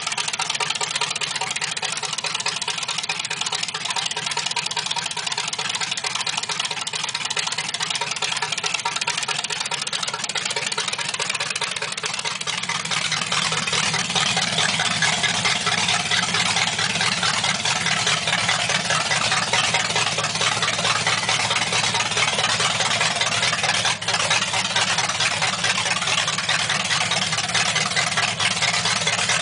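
A 283 small-block Chevrolet V8 idling steadily in a hot-rodded Model A pickup. It grows a little louder about halfway through.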